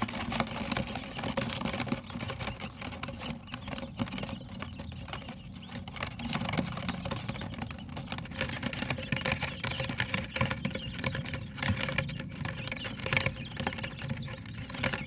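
Quails pecking at feed pellets: a dense, irregular patter of small sharp taps, several a second.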